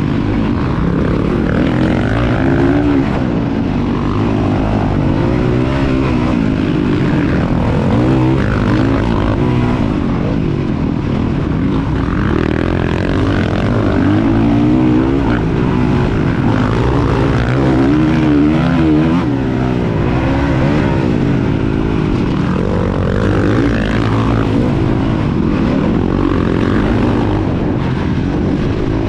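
Motocross dirt bike engine racing, its pitch rising and falling again and again as the throttle is worked through the track's corners and jumps.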